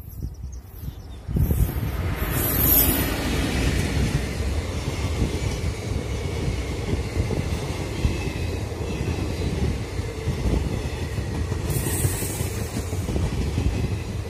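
Passenger train hauled by a WAP-4 electric locomotive running past close by at about 57 km/h. The noise jumps up suddenly about a second and a half in, then holds as a steady stream of wheel-on-rail noise from the passing coaches.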